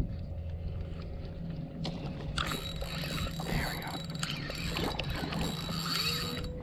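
A boat motor hums steadily underneath. From about two seconds in comes a dense, crackling run of fast clicks, a fishing reel being worked as a fish is fought.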